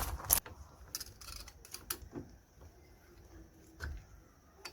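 Scattered light metallic clicks and ticks of tools working the springs off a rear drum brake shoe, with one sharper click just after the start and a few fainter ones spread through the rest.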